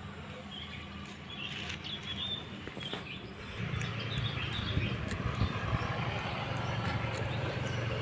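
Small birds chirping in short, scattered bursts, with a steady low hum that comes in about three and a half seconds in and stays louder.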